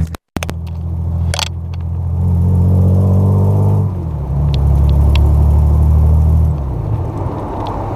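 Chevrolet Opala Diplomata's straight-six engine running with a deep rumble, swelling twice as the throttle is raised and settling back near the end. The sound cuts out for a moment at the start, with a few clicks, as the microphone is switched.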